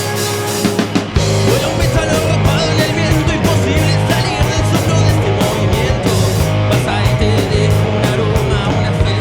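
Live rock band playing: electric guitars, bass and drum kit in a fast, driving beat that kicks in about a second in.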